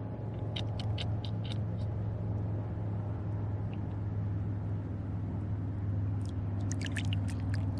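A steady low mechanical hum, like a running motor, with a few short sharp clicks in the first second and a half and again near the end.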